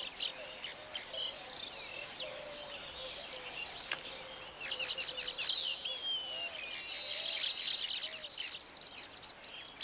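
Weaver birds calling, many chirps and short whistles overlapping. About halfway in the calling gets busier, with falling whistles and then a rapid buzzing trill lasting about a second.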